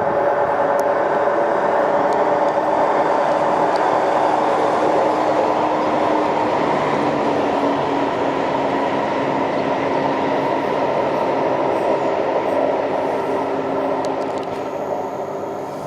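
A train running past at the station: a loud, steady rumble with several steady tones in it, fading away near the end.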